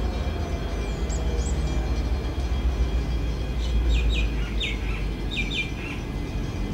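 Birds calling: two short high chirps about a second in, then a run of short calls that drop sharply in pitch between about four and six seconds in. Under them runs a steady low rumble from the railway, quieter than the train noise just before.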